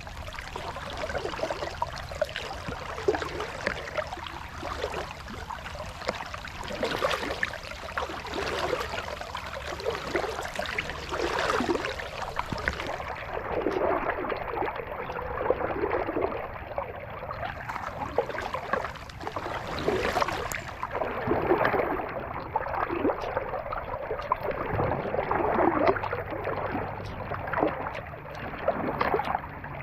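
Kayak paddle dipping and pulling through lake water in a steady rhythm, a splash and swish about once a second, with water trickling off the blades.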